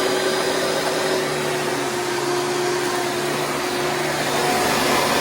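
Round-bag Hoover Preferred direct-air vacuum cleaner running steadily at full speed, a steady motor whine over rushing air.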